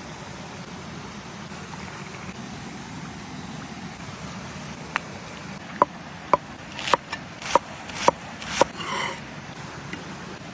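Steady low background noise, with a quick run of about eight sharp clicks and knocks, some ringing briefly, in the second half.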